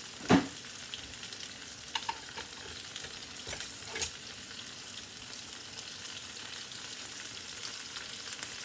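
Steady sizzle of mushrooms cooking in water and bouillon in a pan on the stove. A sharp knock comes about a third of a second in, with a few lighter clinks around two and four seconds in.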